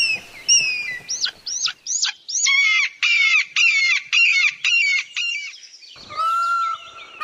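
Bald eagle calling: a few high, falling whistles, then a fast, chattering run of thin piping notes. About six seconds in, a lower, held call from a peacock takes over.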